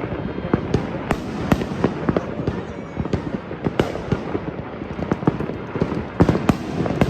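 New Year fireworks going off, a steady run of irregular bangs and crackling pops, several close together.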